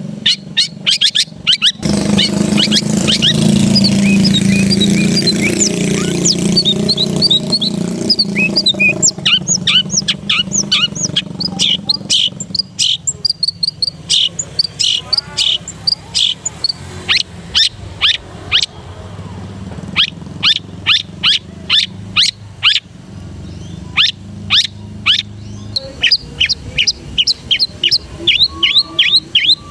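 Long-tailed shrike (cendet) singing a fast, varied song of rapid sharp chips and quick whistled glides, the kind of rich mimicked song bird-keepers call "isian". A low steady rumble runs under the song for the first third or so.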